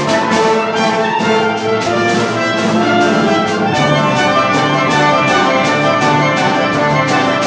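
An orchestra with prominent brass, trumpets and trombones among them, playing sustained chords with a steady pulse of accented notes.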